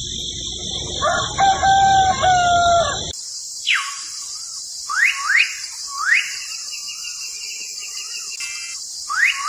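A rooster crows for about two seconds. After an abrupt cut, birds give short rising whistled calls, several in a row, over a steady high hiss.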